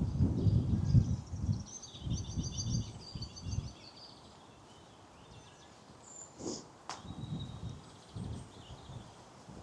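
Walker's footsteps on a canal towpath, heaviest in the first second or so. A small bird sings a quick trilling phrase of rapidly repeated high notes about two seconds in, and there is one sharp click near seven seconds.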